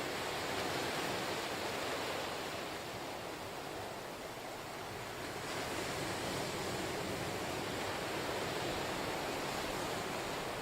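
Ocean waves washing onto the shore in a continuous hiss of surf, swelling and easing gently.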